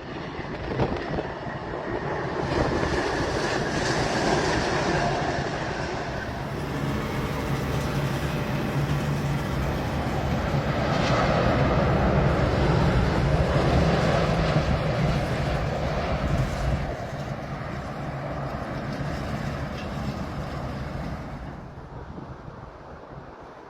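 Airbus A380 jet engines rumbling loudly as the airliner passes. The sound swells to its loudest about halfway through, then fades away over the last few seconds.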